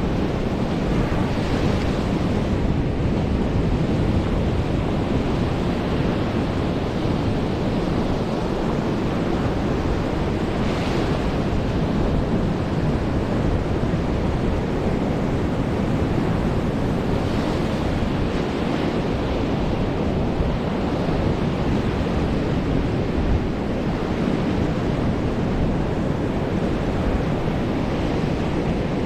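Ocean surf washing in steadily, with a few louder wave breaks about two, eleven and seventeen seconds in, and wind buffeting the microphone.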